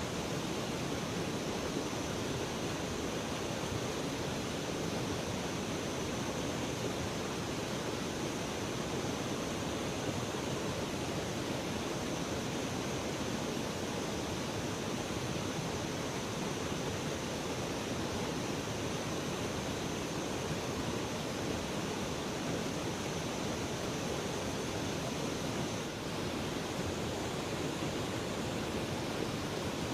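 Steady rush of flowing river water, with a faint high steady tone above it that stops about 26 seconds in.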